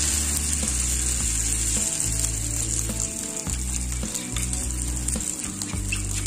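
Egg, onion and chilli masala mixture sizzling steadily as it is spooned into hot oil in an iron frying pan, with a spoon scraping the mixture off the bowl.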